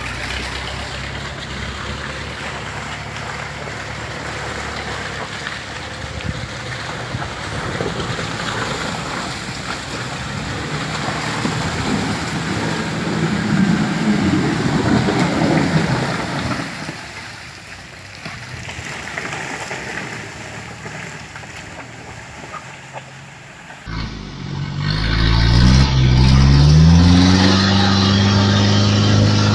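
Vehicle engines running with a steady, noisy hum of road and engine. About 24 seconds in, an engine close by revs up, its pitch climbing for a couple of seconds, then holds a steady note.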